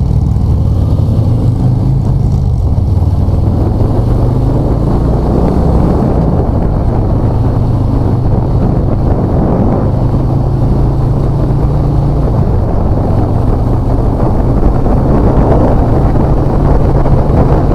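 Motorcycle engine running steadily at cruising speed, with wind rushing past the microphone; it gets a little louder in the last few seconds.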